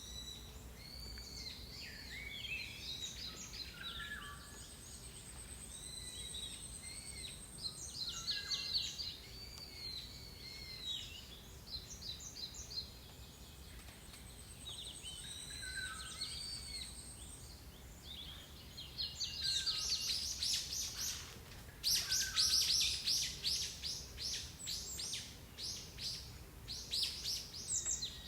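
Several wild songbirds calling and singing together in a forest dawn chorus, with short rising and falling whistled phrases. Twice a thin, very high steady note is held for a few seconds. About two-thirds of the way in, a loud, fast chattering song of rapid repeated notes takes over.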